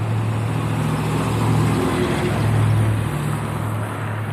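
A motor vehicle passing close by: a steady engine hum over road noise that swells to its loudest about two to three seconds in, then slowly fades.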